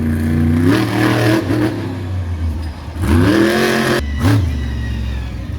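Monster truck engine running hard, with repeated throttle revs that swell up and fall back in pitch: about a second in, around three seconds in, and again just after four seconds.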